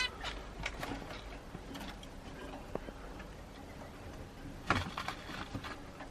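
Caged zebra finches giving short, scattered calls, faint at first, with a louder cluster of calls near the end.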